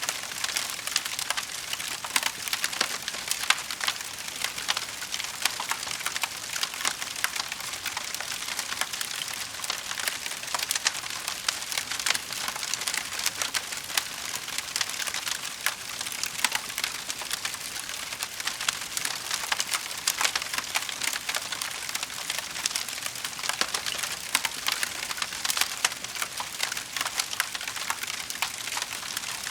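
Wood fire burning in a fireplace, crackling and popping continuously with a dense run of sharp, irregular snaps over a steady hiss.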